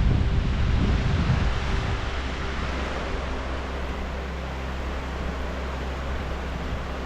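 Sea surf washing onto the beach, a steady rushing, with wind buffeting the microphone; the low wind rumble is strongest for the first two seconds and then eases.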